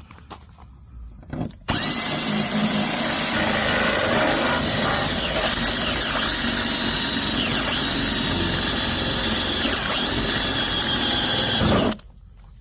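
Power drill cutting through the cargo trailer's wall, running steadily with a high whine for about ten seconds. It starts abruptly about two seconds in and stops abruptly near the end.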